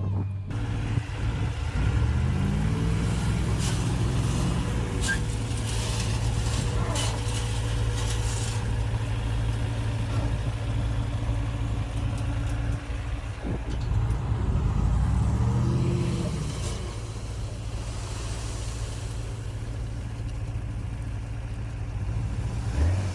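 Diesel engine of a heavy earthmoving machine running steadily. It revs up and back down twice, about two seconds in and again about fourteen seconds in, with a run of metallic clanks and rattles in the first part.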